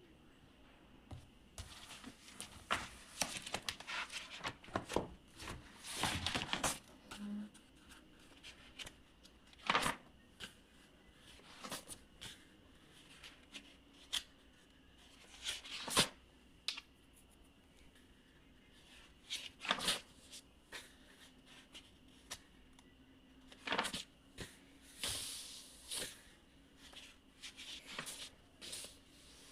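Irregular rustling and small handling noises: scattered brief rustles and clicks of objects being moved by hand, over a faint steady hum.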